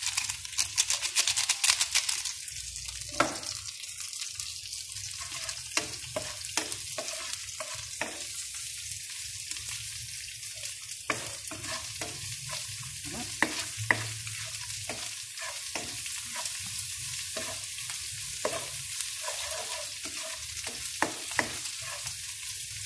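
Sliced onions and garlic sizzling in hot oil in a nonstick wok, crackling more brightly for the first couple of seconds as seasoning granules are shaken in. A spatula stirs and scrapes through the pan, giving short clacks at irregular intervals over the steady sizzle.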